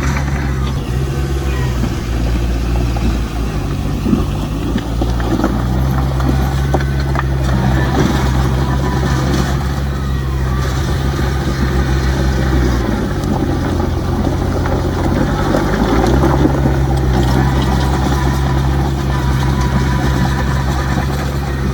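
Heavy diesel engine of earthmoving machinery running steadily under load. Its note sags for a few seconds past the middle and then picks up again, with scattered knocks and clanks over it.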